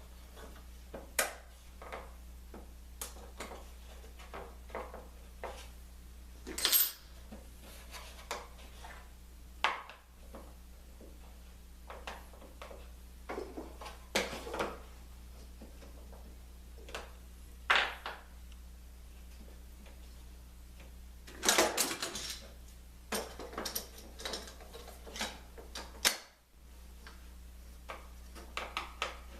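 Scattered metallic clinks and knocks of hand tools being handled as a band clamp is tightened with a wrench, irregularly spaced, with a cluster of clanks a little past two-thirds of the way in, over a steady low hum.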